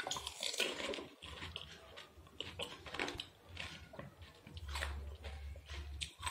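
A crisp fried phuchka shell crunching as it is bitten whole, then chewed with a run of small irregular crunches.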